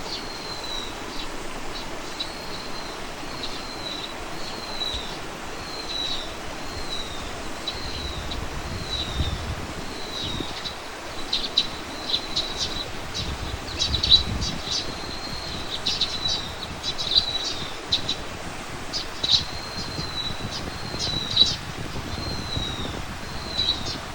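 Birdsong: one bird repeats a short, falling, high note about once a second, and from about halfway through sharp, rapid chips from another bird join in.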